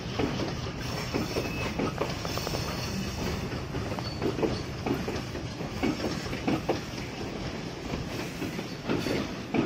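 Train rolling along the track: a steady rumble with wheels clattering over rail joints in an uneven run of knocks.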